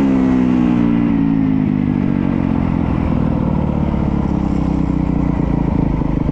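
Honda CRF250R dirt bike's single-cylinder four-stroke engine dropping from high revs over the first couple of seconds, then running low with distinct, even firing pulses, as if off the throttle and settling toward idle.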